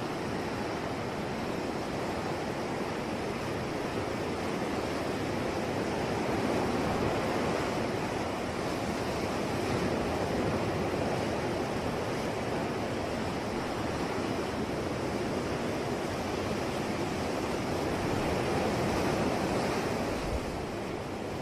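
Ocean waves washing onto a shore, a continuous rush of surf that swells and eases slowly, with a few gentle surges.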